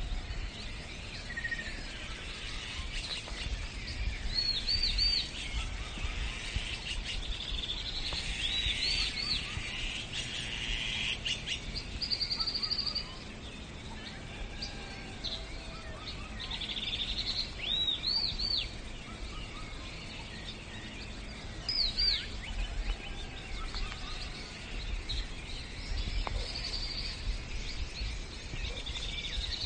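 Birds singing and chirping: short, high, arching notes in quick groups of two or three that repeat every few seconds, with one held high note partway through, over a steady hiss of outdoor background noise.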